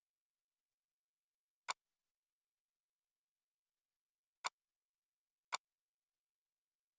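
Three single sharp clicks of a computer mouse button against dead silence: one a little under two seconds in, then two more about a second apart.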